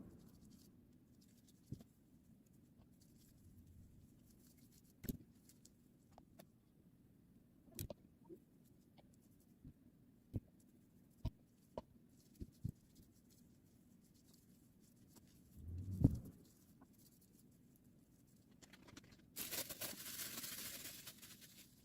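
Faint handling noises: scattered small clicks and taps, a louder thump about sixteen seconds in, and a rushing hiss lasting about two seconds near the end.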